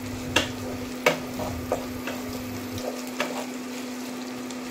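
Sliced onions, garlic and ginger sizzling steadily in a little oil in a nonstick kadai. A wooden spatula knocks and scrapes against the pan half a dozen times as they are stirred.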